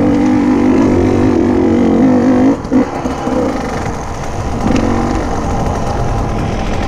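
KTM 150 EXC TPI two-stroke enduro engine under way, held at high revs. The throttle is chopped suddenly about two and a half seconds in, and the engine picks up again briefly near five seconds.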